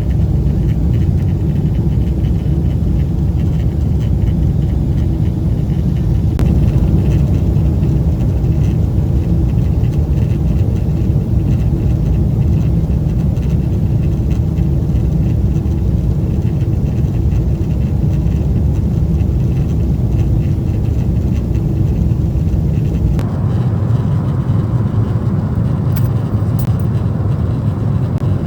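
Steady low cabin rumble of a Boeing 777-300ER in cruise, from its GE90 engines and the air rushing past the fuselage. The noise shifts in character near the end.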